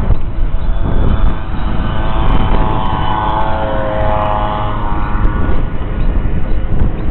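Wind buffeting the microphone, with a passing engine's hum that swells over a few seconds and fades again.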